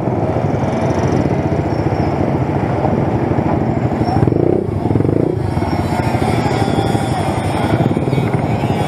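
Motorcycle engine running steadily under way, with a fast, even throb.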